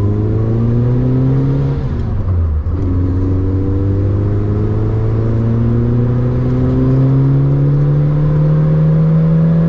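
Renault 8's rear-mounted engine pulling hard under acceleration: the pitch rises, drops with a gear change about two seconds in, then climbs steadily for a long pull in the next gear.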